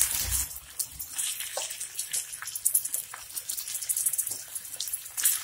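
Liver pieces sizzling and crackling in hot oil and ginger-garlic paste on a flat iron tawa: a steady hiss with many fine pops, just after they go into the pan.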